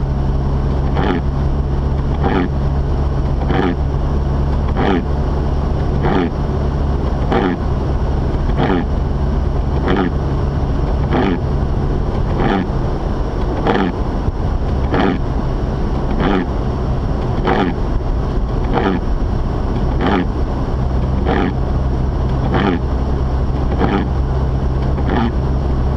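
Cabin noise of a Mazda RX-8 driving: a steady low drone from its rotary engine and the road. Over it comes a regular swish about every 1.3 seconds, typical of windshield wipers clearing snow.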